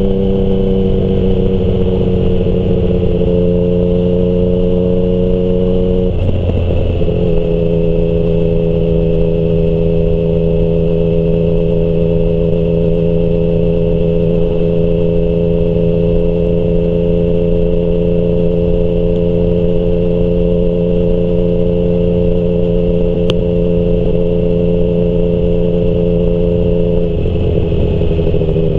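Yamaha MT-09's three-cylinder engine through a Termignoni exhaust, running at a steady engine speed under way. The note shifts briefly about three seconds in, breaks for about a second around six seconds in, then holds steady and drops slightly near the end.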